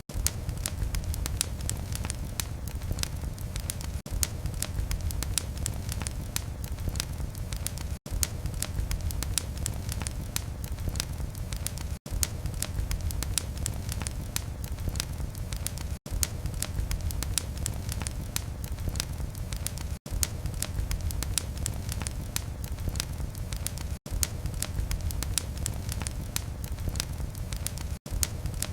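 Wood fire crackling in a fireplace: dense, irregular pops and snaps over a steady low rumble of flame. A very short dropout breaks it about every four seconds.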